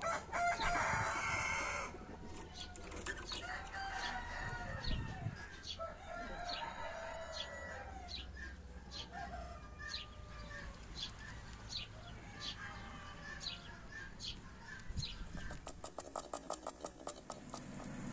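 Chickens in a farmyard: a rooster crows loudly at the start, then hens cluck on and off. Small birds chirp sharply throughout, with a quick run of ticking chirps near the end.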